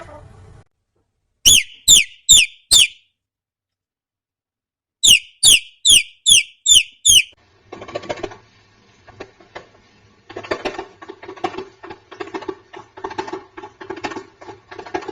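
A parrot giving sharp, high, falling squeaks: four in quick succession, then six more after a pause of about two seconds. After that comes a softer, rapid, pulsing chatter.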